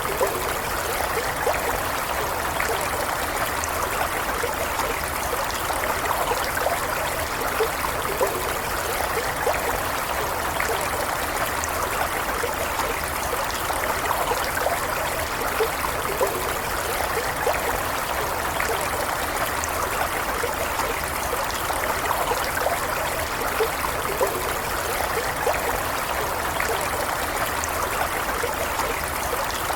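A small stream flowing steadily over stones, an even rushing with light trickling and gurgling detail.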